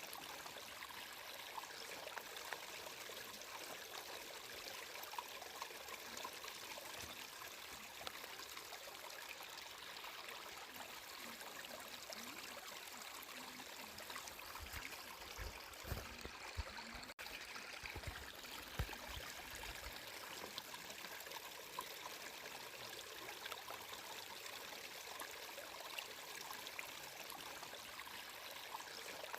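Water flowing steadily, an unbroken trickling and splashing like a small stream. A few deep low rumbles come about halfway through.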